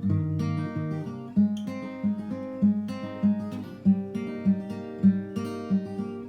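Background music: acoustic guitar picked and strummed in a steady, even rhythm.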